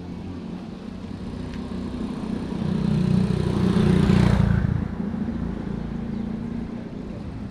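A motor vehicle goes by close to the microphone over a steady engine hum. Its engine and tyre noise swells to a peak about four seconds in, then falls away quickly.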